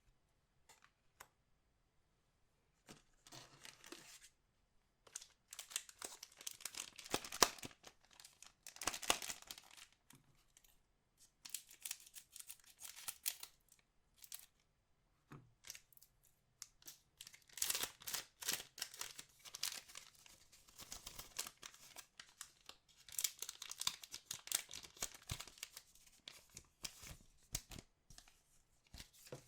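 Trading card booster packs being torn open and their wrappers crinkled by hand, in several bursts of tearing and rustling with short pauses between.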